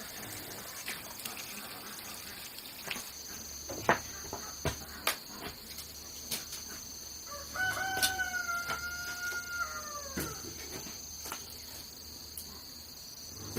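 A rooster crows once, a long call of nearly three seconds that falls away at the end. A steady high insect trill and scattered sharp clicks run underneath.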